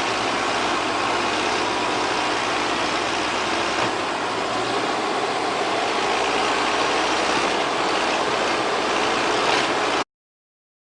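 A heavy vehicle's engine running steadily under a dense wash of noise, cut off abruptly about ten seconds in.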